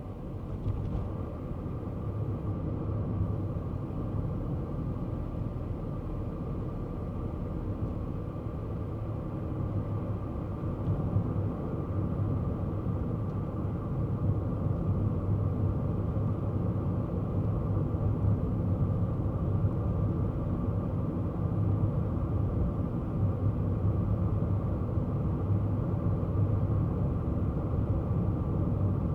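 Kei car driving, a steady engine and road rumble that gets a little louder partway through.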